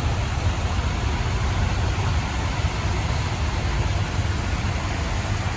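Steady low rumble of a motor vehicle running, engine and road noise without change.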